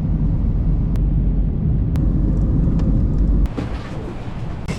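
Steady low rumble of a moving vehicle, loud until about three and a half seconds in, then quieter.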